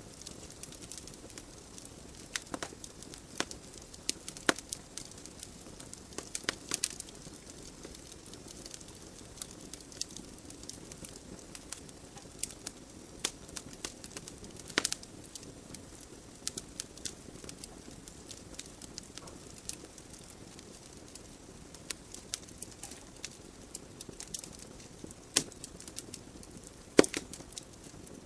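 Wood fire burning in a fireplace: irregular crackles and sharp pops from the burning logs over a soft steady hiss of the flames.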